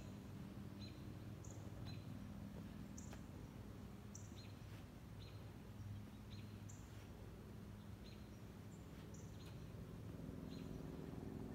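Small birds chirping, with short high chirps repeating about once a second, over a low steady hum.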